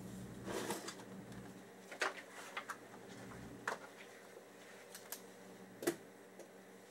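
School supplies (notebooks, a plastic pencil case, paper) being set down and handled on wooden desks: a handful of light knocks and paper rustles, with notebook pages being turned, over faint room tone.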